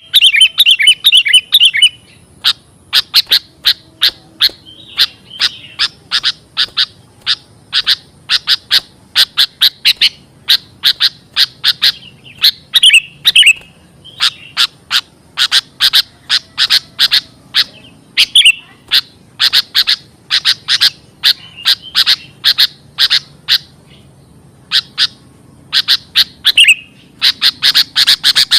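Sooty-headed bulbul (kutilang) calling: long, fast runs of short, sharp chirps, broken every few seconds by a brief bubbling warble.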